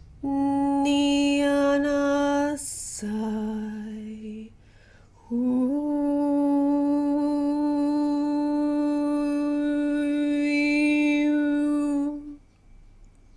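A woman's voice toning in long held notes without words: a note for about two seconds, a breath, a lower note, then one long steady note of about seven seconds.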